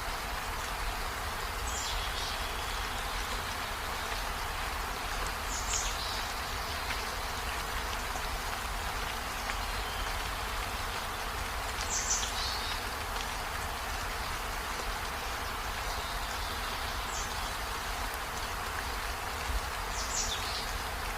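Steady rain falling on trees, an even continuous hiss, with a short, high, falling chirp every few seconds.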